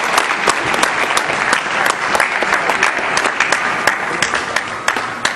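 Audience applauding: dense clapping that begins to die down near the end.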